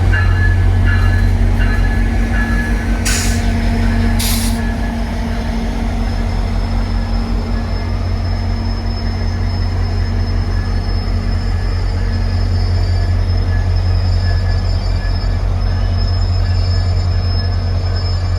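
VIA Rail passenger train pulling into a station: a steady low rumble with a faint high wheel squeal. Two short hisses come about three and four seconds in.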